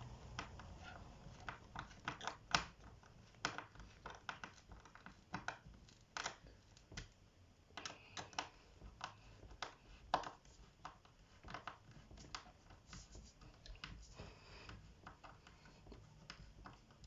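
Irregular light clicks and knocks of small plastic wardrobe clip fittings being handled and pressed into the holes of a particleboard panel, with a few sharper knocks, about two seconds and ten seconds in the loudest.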